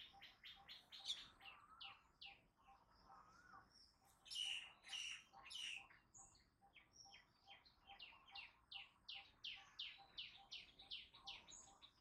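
Birds chirping in quick runs of short, downward-sweeping notes, with three louder chirps about four to five seconds in. Under them a faint low note repeats at an even pace.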